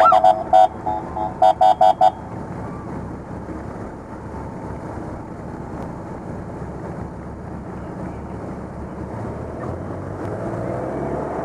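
Police motorcycle horns beeping in quick short bursts, about a dozen in the first two seconds, opened by a brief rising siren chirp. After that comes the steady running of motorcycle engines.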